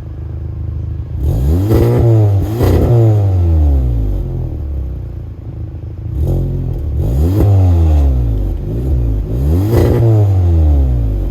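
Car exhaust as the engine is revved in short throttle blips, pitch rising and falling back to idle: a couple of blips about two seconds in, more around seven seconds and again near ten seconds, with idle running steadily between.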